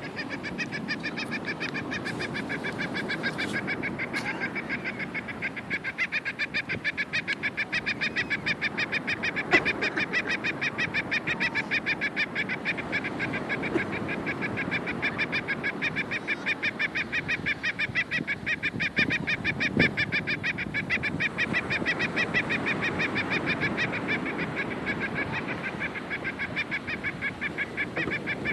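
Male gull giving its copulation call while mounted on a female: a steady, rapid series of short, evenly repeated squawks, several a second, kept up without a break. There are a couple of brief sharp knocks midway.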